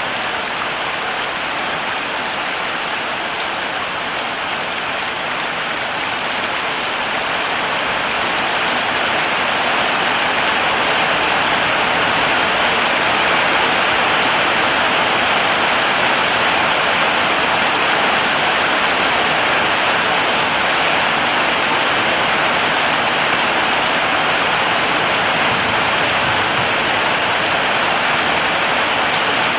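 Heavy rain falling steadily, a dense even hiss of drops that swells slightly louder about a third of the way through.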